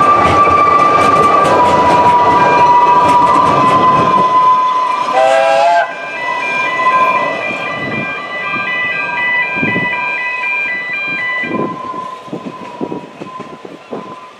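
Narrow-gauge train coaches rumbling past slowly, their wheels squealing with a high steady tone. A short whistle blast comes about five seconds in. The rumble drops away, leaving wheel squeal and scattered clicks that fade as the last coaches pass.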